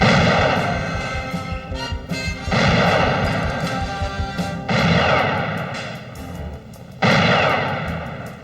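Four heavy blasts of gunfire, roughly two seconds apart, each dying away slowly, with a dramatic music score underneath.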